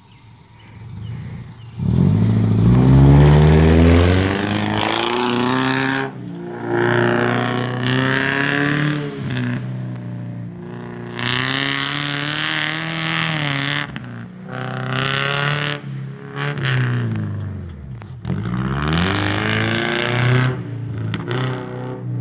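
Subaru Legacy sedan's flat engine revving hard as the car is driven across a grass field. Engine pitch climbs, drops and climbs again many times as the driver accelerates, lifts and shifts, loudest about two seconds in as it pulls away.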